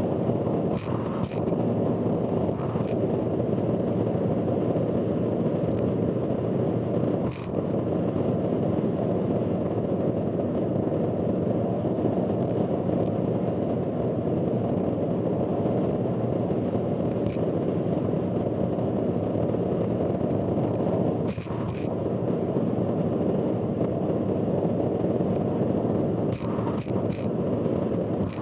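Steady driving noise inside a car on an expressway, loud and even, with scattered sharp clicks and ticks, a few seconds apart or more. The uploader warns that this recording carries a loud abnormal noise.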